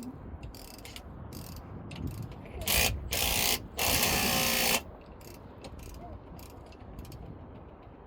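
Mechanical clicking of tools at work, with two loud bursts of rapid ratchet-like clatter, each about a second long, near the middle.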